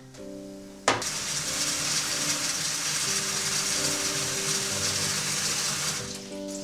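Water running from a kitchen tap for about five seconds, starting with a click and cutting off near the end, over soft background music.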